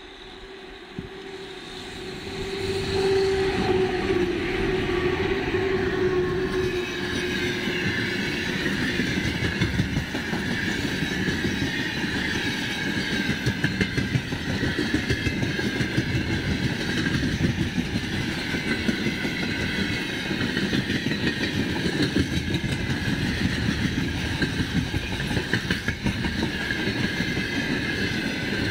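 Long freight train of open wagons passing close by, its wheels clattering rapidly and densely over the rail joints with a heavy rumble. As the train comes up and the sound builds over about three seconds, a steady hum from the VL11 electric locomotive at its head sags slightly in pitch as it goes by.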